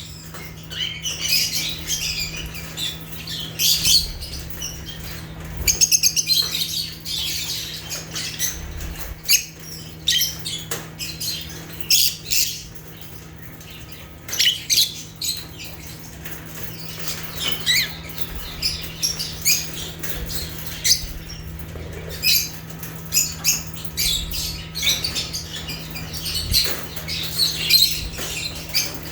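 Lovebirds (Agapornis) chirping and squawking: quick clusters of short, high-pitched calls, over a steady low hum.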